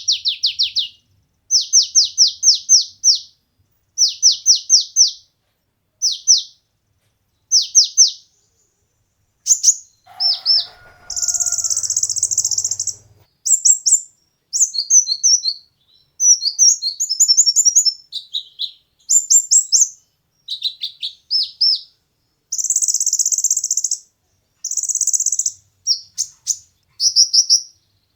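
Kolibri ninja (konin) sunbird singing: groups of quick, high falling notes, then buzzy trills and fast twittering runs.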